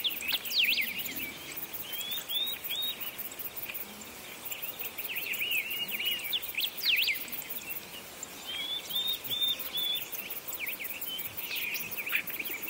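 Songbirds chirping: clusters of short, quick notes that sweep up and down, coming and going in bursts over a faint steady background hiss.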